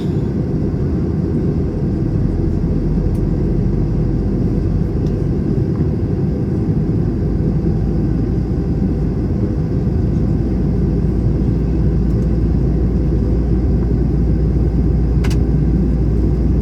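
Steady low rumble of an Airbus A321's engines and airflow heard inside the cabin, with a single sharp click near the end.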